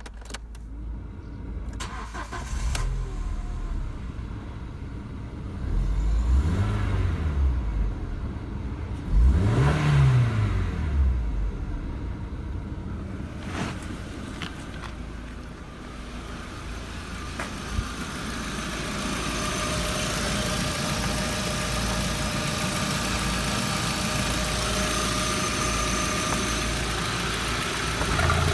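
VW Passat B5's 2.0-litre AZM four-cylinder petrol engine running: it is revved up and let fall back twice, a short blip and then a higher one, then settles to a steady idle.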